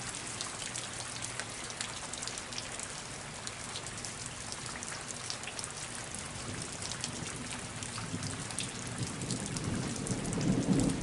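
Heavy rain pouring down, a dense patter of drops hitting the ground and flooded street. Near the end a low rumble swells up under the rain.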